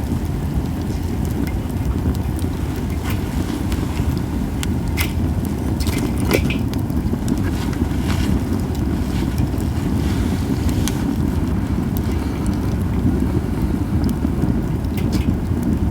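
Japanese cedar campfire crackling, with a handful of sharp pops scattered through over a steady low rumble.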